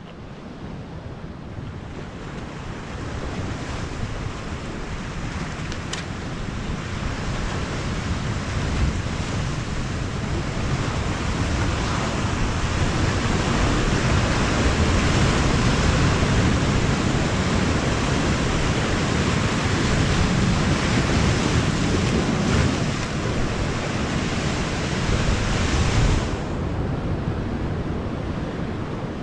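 Sea surf washing in, mixed with wind on the microphone, as a steady rushing noise. It swells over the first dozen seconds, and the hiss cuts off suddenly near the end.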